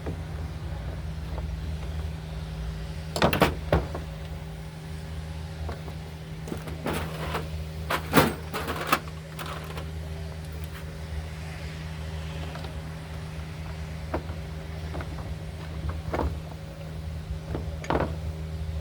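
Scattered knocks and clicks of hands and tools handling small chainsaw parts, loudest in two clusters early and midway, over a steady electrical hum.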